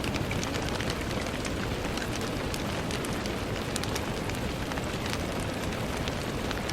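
Steady rain on a window pane: an even hiss of falling rain with many small, irregular taps of drops striking the glass.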